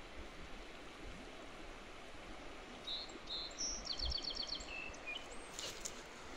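A small songbird sings one short song about three seconds in: two chirps, a quick trill of about seven high notes, then two lower notes. Underneath is a steady rushing background noise.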